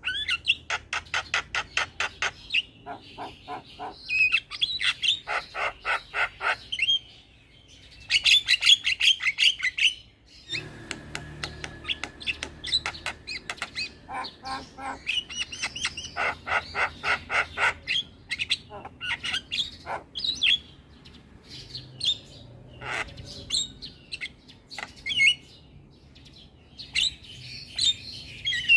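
Javan mynas calling: fast runs of repeated harsh chattering notes, about five or six a second, each run lasting a few seconds with short pauses between.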